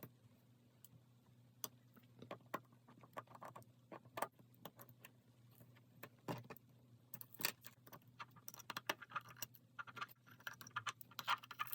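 Faint, irregular small clicks and light metallic taps of repair tools working on an iPhone SE's parts, growing busier in the last few seconds, over a low steady hum.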